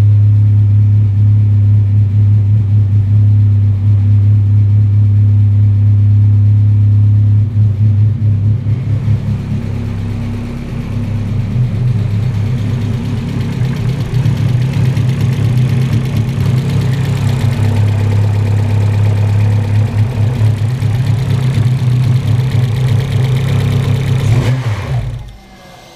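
Turbocharged 1.8-litre four-cylinder engine of a 1997 Audi A4 B5 quattro, fitted with a big Garrett turbo and a 3-inch exhaust, idling steadily while warming up. The engine sound drops away about a second before the end.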